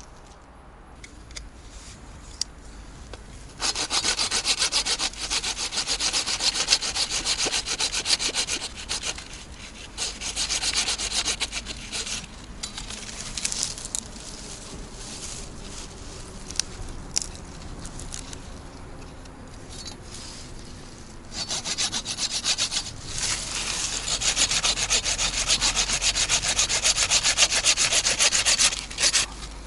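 Hand saw cutting wood with rapid back-and-forth strokes, in two long bouts: one starting a few seconds in and one in the last third, with a quieter stretch between.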